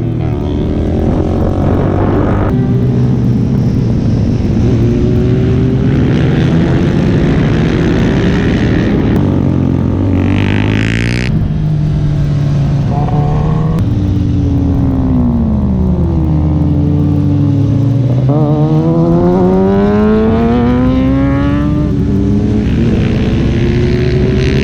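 Superbike engines running hard on a race track, several at once, their pitch dropping as they slow for a corner and then climbing steadily as they accelerate away.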